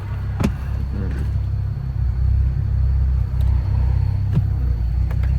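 Straight-piped BMW N55 3.0-litre turbocharged inline-six running, a deep steady exhaust rumble heard from inside the cabin, getting louder about two seconds in. A sharp click comes about half a second in.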